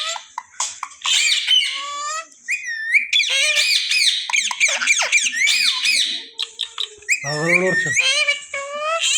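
Indian ringneck parrots chattering and squawking in rapid, high-pitched gliding calls, with a short lull about two and a half seconds in and one lower, falling call near the end.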